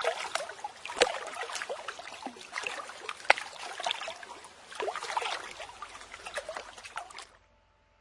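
Recorded lake sound effect: water lapping and splashing, full of small splashes, which cuts off suddenly about seven seconds in.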